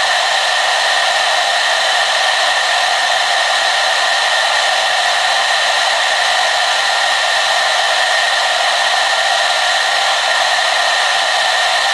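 Hair dryer running continuously, a steady even rush of airflow and motor with no change in speed.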